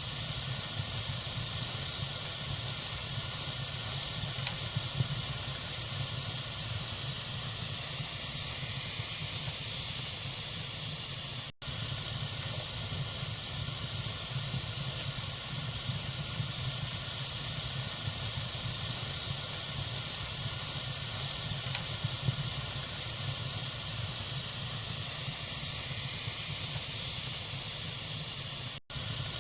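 Fire burning in a fireplace, a steady hiss with a few faint crackles. The sound cuts out for an instant twice, about a third of the way in and near the end.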